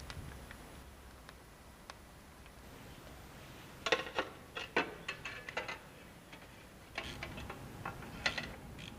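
A series of sharp clicks in two bursts, the first about four seconds in and the second near the end.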